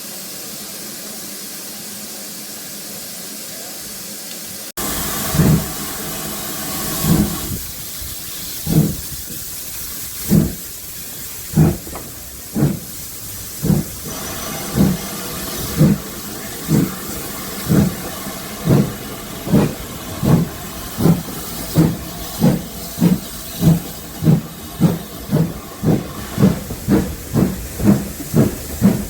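Steady hiss, then after a cut about five seconds in, a steam locomotive pulling away with a train. Its exhaust chuffs start slow and quicken steadily, over the hiss of steam.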